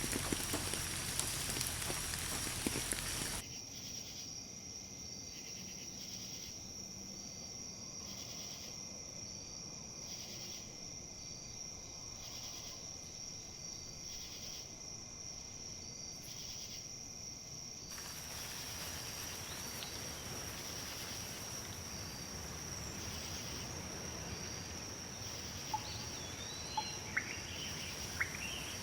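Nature ambience: a steady hiss of rain that cuts off abruptly a few seconds in, leaving insects trilling with a steady high buzz and a regular chirp about once a second. A soft rustling hiss of wind in leaves comes back about two-thirds of the way through, and a few bird chirps come near the end.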